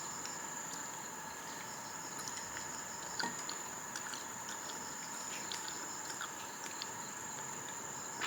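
Steady chorus of insects, with a high continuous trill over lower ringing tones, and a few faint scattered clicks.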